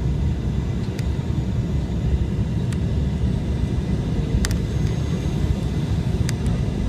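Airliner cabin noise during the landing approach: a steady low rumble of engines and airflow, with a few faint clicks.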